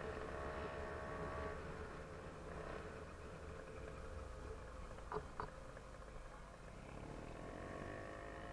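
Small engine of a motorized bicycle running, fading out about a second and a half in and coming back near the end, with two short clicks about five seconds in.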